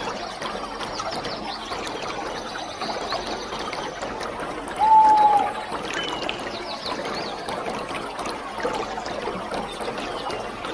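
Waterfall: a steady rush of falling water. A few high bird chirps sound over it, and one louder, short whistled call comes about five seconds in.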